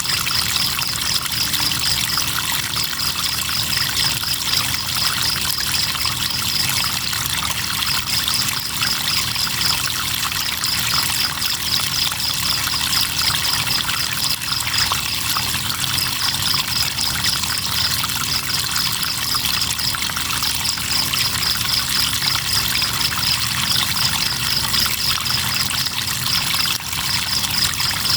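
River water running steadily, with crickets chirping in a high, rapidly pulsing trill that breaks off briefly every few seconds.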